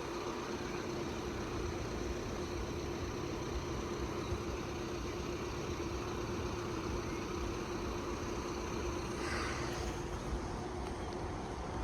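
Steady vehicle engine noise, like an engine idling: a low rumble with one constant hum that does not change.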